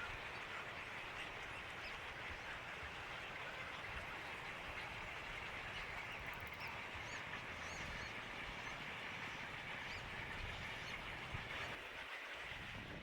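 Faint bird calls, a few short high chirps, over a steady outdoor hiss.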